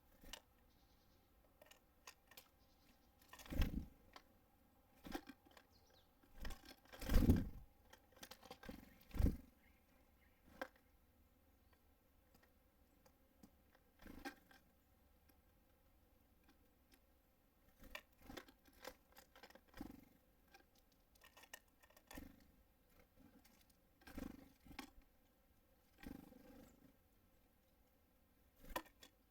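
Irregular taps, knocks and scrapes of small birds landing and pecking at seed on a bird feeder close to the microphone, with a few louder thuds in the first third.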